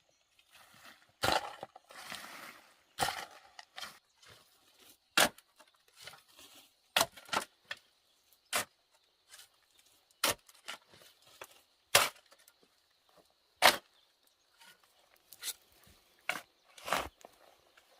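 A series of sharp, irregular knocks from hand-tool work, about a dozen of them, one every second and a half to two seconds, with a faint steady high whine underneath.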